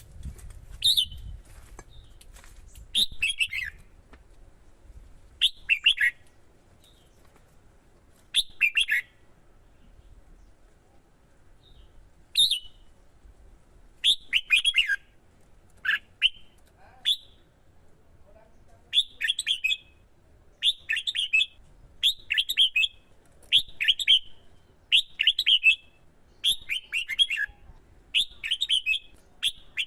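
Red-whiskered bulbul singing short, falling whistled phrases. They are spaced a few seconds apart at first, then come about once a second in the second half.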